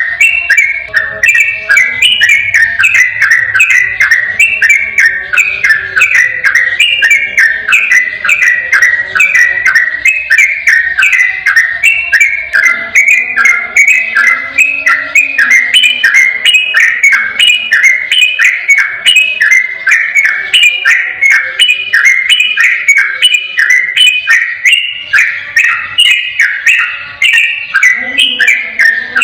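Sooty-headed bulbul (trucukan) singing its long 'ropel' song: a rapid, unbroken run of clear whistled notes, several a second, jumping up and down in pitch without a pause.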